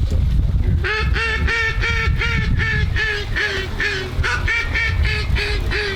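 A rapid, even series of loud mallard-style quacks, about four a second, starting about a second in and running on.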